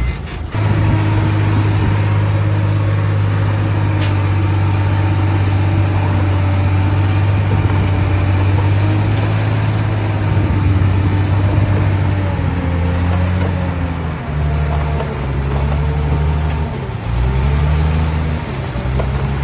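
Heavy diesel engine running at a steady speed, then its revs dropping and rising several times in the last third. A short, sharp high sound about four seconds in.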